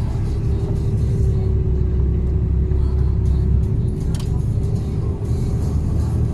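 Mercedes-Benz Actros truck heard from inside the cab: a steady low engine and road rumble, with music playing under it.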